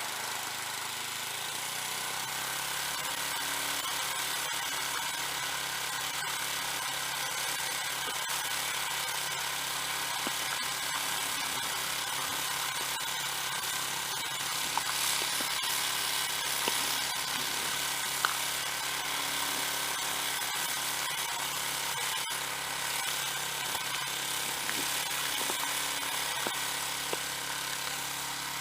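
Small gasoline snowblower engine running steadily, with a few sharp clicks or knocks about halfway through.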